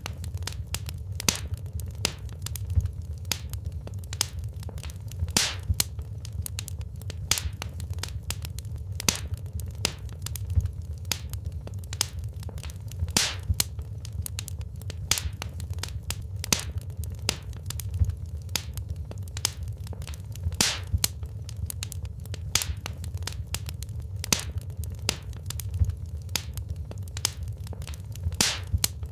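Wood fire burning in a fireplace: a steady low rumble of flames with sharp, irregular crackles and pops of burning logs.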